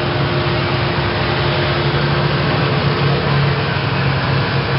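Speedboat engine running steadily, with a constant low hum that does not rise or fall.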